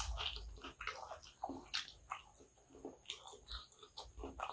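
Close-miked chewing of kottu roti, with irregular wet smacks, clicks and squelches from the mouth.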